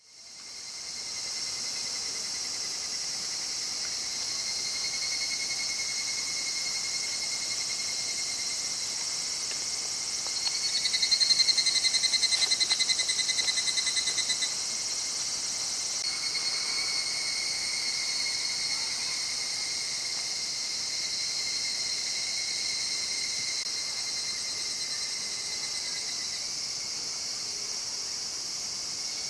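Chorus of summer insects: a steady high-pitched buzzing and shrilling, with a louder pulsing trill joining about ten seconds in for four seconds.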